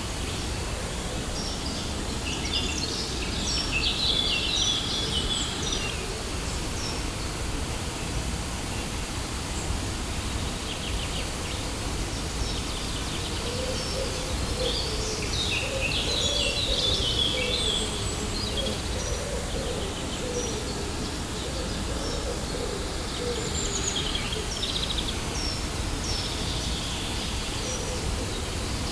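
Waterfall rushing steadily, with small birds chirping and singing over it in three bursts: near the start, mid-way and near the end.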